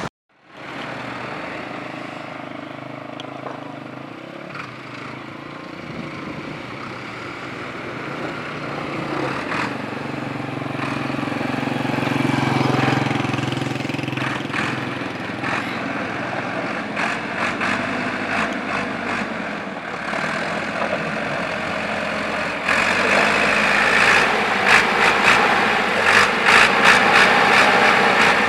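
A heavy vehicle's engine running amid a steady rushing noise, swelling about twelve seconds in; about 23 seconds in the whole sound turns louder and harsher, with a dense crackle.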